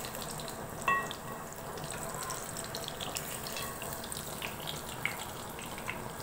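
Chana dal patties frying in oil in a pan, a steady sizzle with small crackles. A sharp metallic clink rings out about a second in as the patties are being turned.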